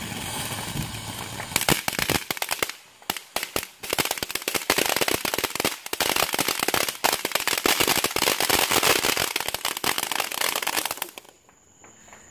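Consumer fireworks crackling: a dense, rapid run of sharp pops and crackles that starts about a second and a half in, thins out briefly a few times, and stops about a second before the end.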